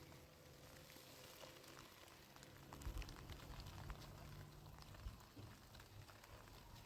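Near silence: a faint even hiss with scattered small ticks and a soft low thump about three seconds in.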